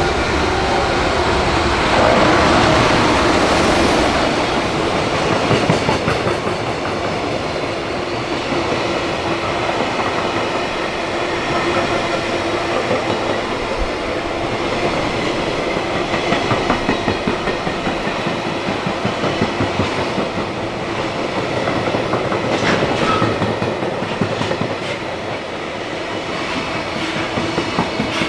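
Freight train running past, its wheels clattering rhythmically over the rail joints, loudest a few seconds in.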